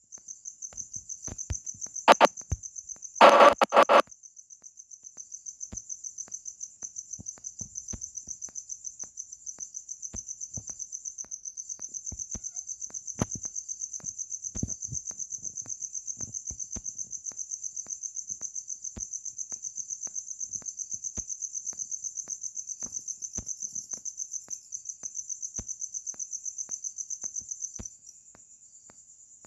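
Cricket chirping: a steady, high-pitched trill of rapid, even pulses that stops about a second before the end. Two short, louder sounds come about two and three seconds in.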